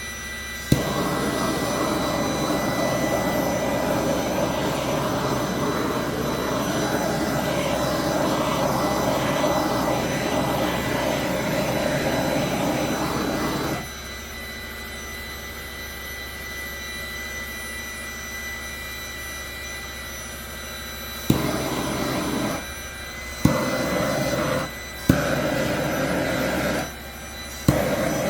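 Small heat-shrink heat gun blowing steadily for about thirteen seconds, then switched on and off in four short bursts, each starting with a click.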